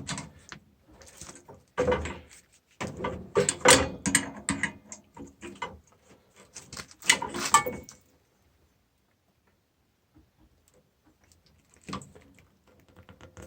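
Two wrenches working a straight-shank easy-out in a broken-off steel pipe stub in a boiler fitting: a busy run of metal clicks and knocks for about eight seconds. One more knock comes near the end.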